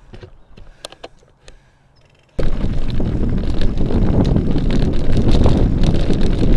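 Fairly quiet with a few sharp clicks, then, about two and a half seconds in, loud wind noise buffeting an action camera's microphone starts abruptly and carries on, as from riding a bicycle off-road at speed.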